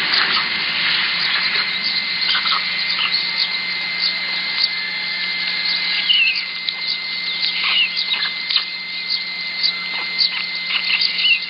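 Outdoor ambience: a steady hiss with a constant high whine, overlaid with scattered short bird chirps and clicks, a few quick chirps standing out about six, eight and eleven seconds in.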